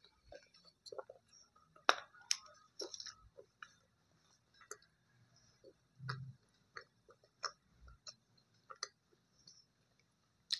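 A person chewing brittle white slate-pencil pieces close to the microphone: irregular dry crunches and crackles, the loudest about two seconds in, with a fresh bite near the end.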